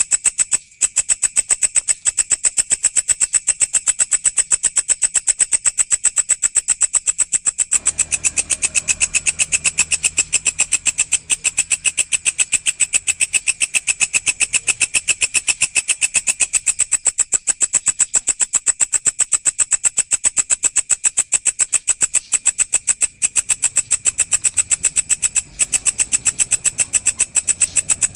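Walang (grasshopper) calling: a loud, high-pitched, fast train of sharp pulses, steady throughout, with a few momentary breaks.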